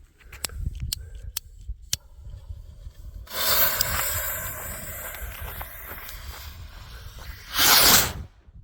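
Homemade rocket-launched fireworks shell firing: a sudden hiss starts about three seconds in and runs for over four seconds, then a short, louder whoosh near the end that cuts off abruptly as the rocket engine lifts the shell away.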